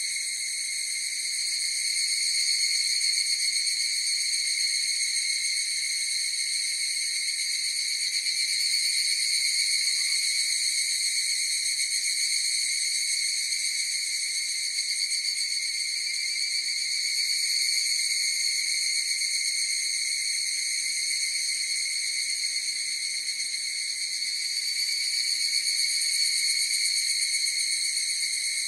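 A chorus of higurashi, the Japanese evening cicada (Tanna japonensis), singing: a continuous high-pitched ringing that swells and fades slowly every several seconds.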